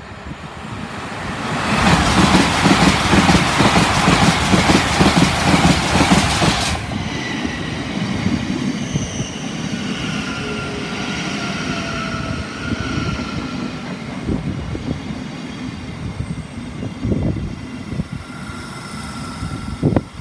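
An LNER Azuma (Class 800) passes through the station at speed: a loud rush of wheels and air builds over the first two seconds, holds for about five, then cuts off abruptly. After that comes a quieter rumble from a Thameslink Class 700 electric unit at the platform, with the thin whine of its electric traction equipment and a few thumps near the end.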